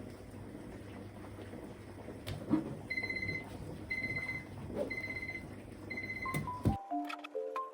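An electronic beeper sounding four short, high beeps, about one a second, over room noise with a few small knocks. Near the end, light mallet-percussion music begins.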